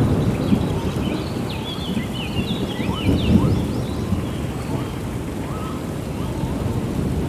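Steady rainforest rain with a low rumble of thunder that swells near the start and again about three seconds in. Over it, birds chirp rapidly in the first half, and short rising animal calls sound now and then.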